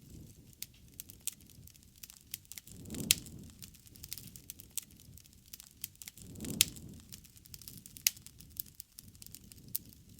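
Wood fire crackling, with irregular sharp snaps and pops. Two louder pops come about three and six and a half seconds in, each with a brief low swell.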